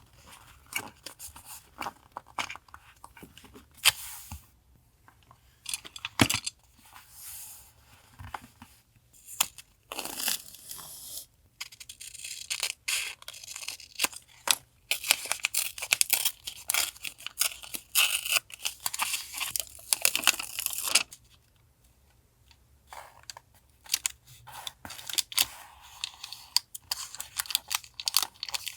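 Paper and tape being handled: irregular tearing, peeling and crinkling with small taps and clicks. The sounds come in bursts, with brief pauses between them.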